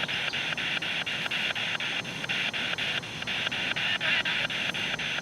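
Spirit box sweeping through radio stations: radio static chopped into short bursts about seven times a second.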